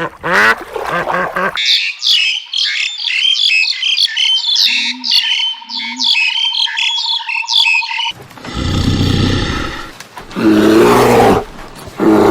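A run of animal calls: a brief pitched call at the start, then several seconds of rapid, high bird chirping and tweeting, then louder, harsh calls from about eight seconds in.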